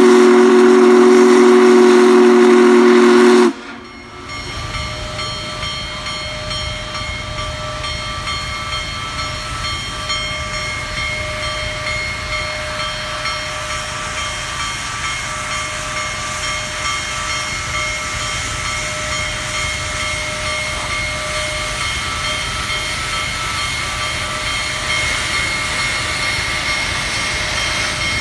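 Union Pacific Big Boy 4014 steam locomotive's whistle blowing one loud chord blast, cut off sharply about three and a half seconds in. Then a steady rumble and hiss from the departing steam locomotive, growing slowly louder.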